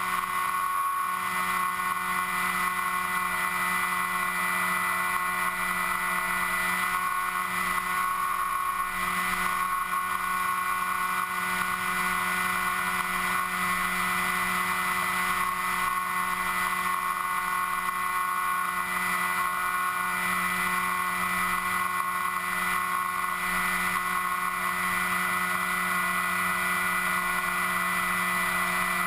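Electric motor and propeller of an FPV aircraft, heard from the onboard camera: a steady whine of several fixed tones over a rushing noise, held at constant throttle.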